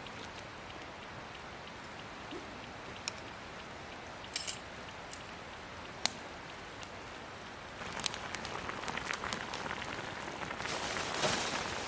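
Wood campfire crackling: a steady hiss with a few sharp pops, growing busier with more crackles in the last few seconds.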